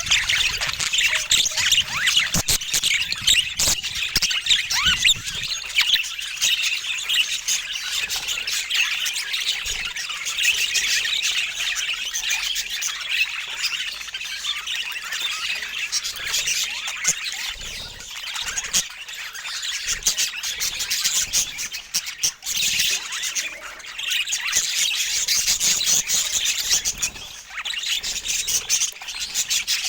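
Budgerigars chattering steadily, a dense run of warbles, chirps and squawks with no break.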